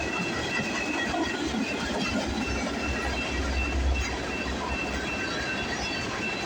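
Freight cars of a long manifest train rolling past with a steady rumble and clatter of wheels on rail, with thin high squeals from the wheels coming and going.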